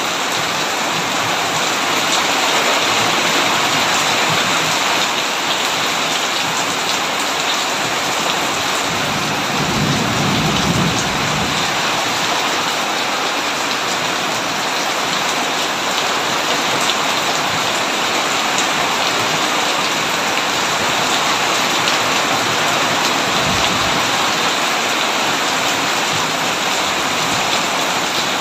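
Heavy rain falling steadily on a tin roof, with a low rumble of thunder about nine seconds in lasting two or three seconds, and a second, fainter rumble later on.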